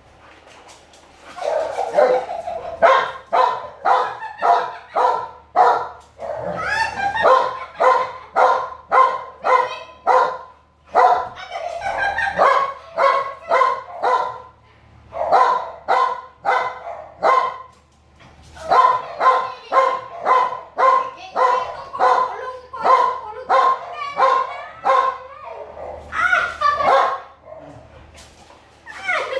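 American Bully dog barking in long runs of about two barks a second, with short breaks between runs and a few drawn-out cries that rise and fall in pitch mixed in.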